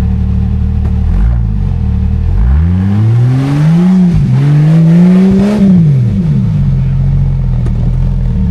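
Jeep Cherokee engine revved hard twice under throttle, its pitch climbing, dipping briefly and climbing again before falling back to a steady idle, as the Jeep is driven at an off-road obstacle.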